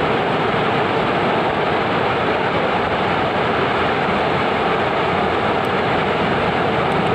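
A steady, loud rushing noise with no distinct events.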